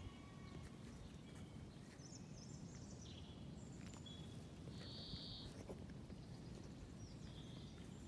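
Faint birdsong: scattered short chirps and song notes from small birds, the clearest about five seconds in, over a steady low rumble.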